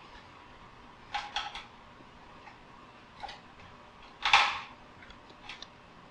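Hands working on a light fixture during rewiring: a few sharp clicks and taps, with one louder short scrape a little past four seconds.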